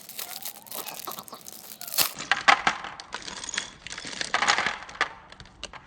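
Plastic packaging crinkling and rustling, with small plastic LEGO pieces clicking and clinking as they are handled.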